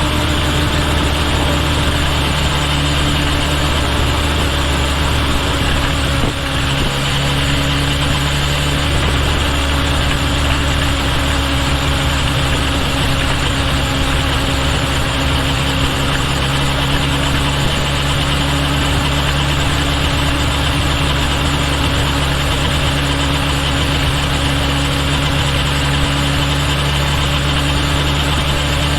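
Kawasaki Ninja H2 SX's supercharged inline-four engine running at a steady, even pitch, with a slight change about six seconds in.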